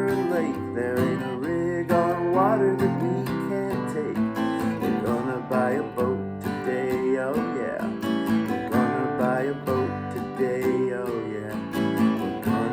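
Instrumental country-style music: strummed acoustic guitar over a steady bass, with a melody of bending, sliding notes above it.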